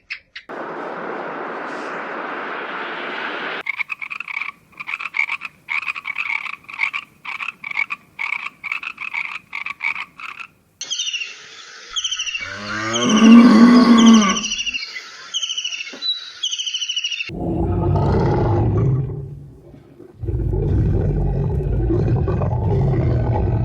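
A run of different animal calls cut one after another: first a short hiss, then rhythmic croaking about twice a second, then high chirping with a loud, falling roar-like call in the middle, and low calls near the end.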